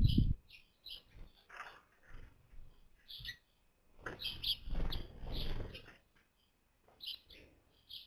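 Birds calling with many short, high chirps in quick irregular bursts. Low rumbles break in at the start and again about four seconds in.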